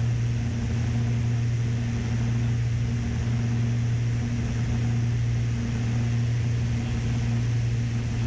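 Beechcraft Baron B55's twin piston engines droning steadily in the cockpit on final approach, a low even hum with a steady higher tone above it.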